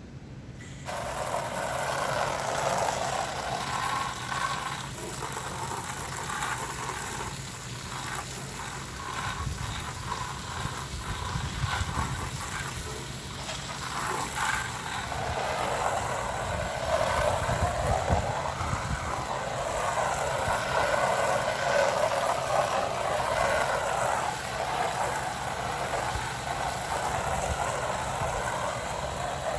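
Water spray hissing against house siding from a garden-hose sprayer applying vinyl and siding cleaner. The spray starts about a second in and then swells and eases. A steady low hum from an air-conditioning unit runs beneath it.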